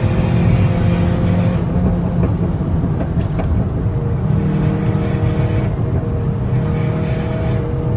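Exhaust note of a VW Beetle's 2.0 TSI turbocharged four-cylinder through a homemade 76 mm valved exhaust with a decat downpipe, running at a steady engine speed. The note breaks up between about two and four seconds in, then settles on a steady tone again.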